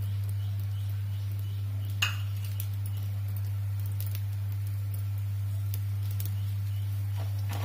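A pesarattu sizzling faintly on a hot flat pan, with scattered light crackles over a steady low hum. There is one sharp clink about two seconds in.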